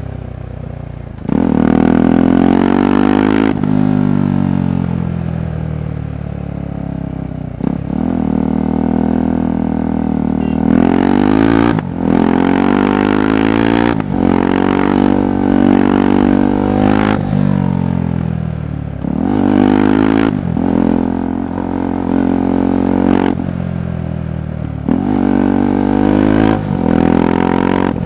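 KTM 390 Adventure's single-cylinder engine heard through its exhaust, opening up about a second in and then repeatedly pulling up in pitch and dropping back as the rider shifts gears and rolls the throttle off and on.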